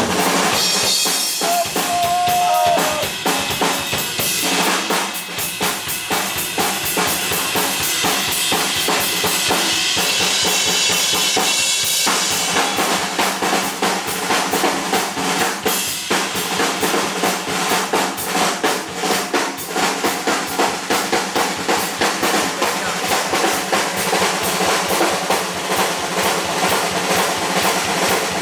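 Heavy metal band playing live, led by a drum kit played fast and hard: rapid bass drum, snare hits and rolls.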